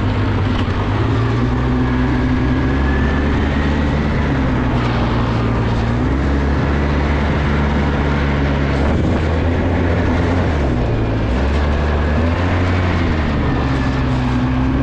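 Small off-road vehicle engine running steadily, its pitch shifting up and down in steps several times.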